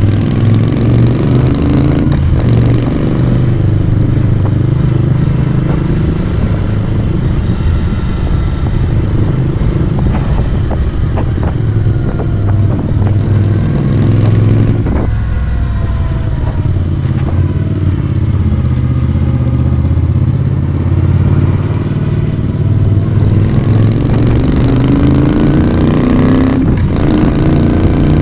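A Moto Guzzi V35's air-cooled V-twin engine and exhaust under way. The revs climb in several rising pulls, with short breaks in the note about 2 seconds in, about halfway, and near the end.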